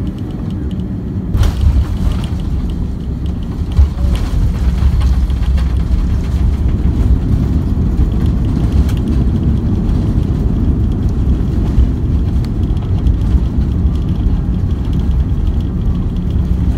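Airbus A340-300 rumbling down the runway as heard from the cabin. The landing gear thumps about a second and a half in, then a heavy, steady rumble as the jet rolls out.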